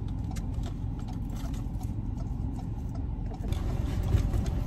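A car's engine idling, a low steady sound heard inside the cabin, with light rustling and small clicks of someone shifting in the seat and gathering a bag. About three and a half seconds in, a wider hiss of outside noise grows louder.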